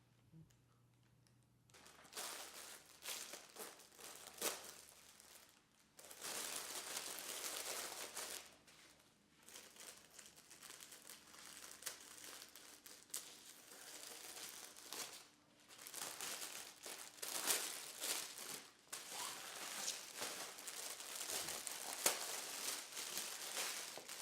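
Bursts of crinkling and rustling with short pauses and a few sharp clicks, as fresh yu choy sum greens are handled.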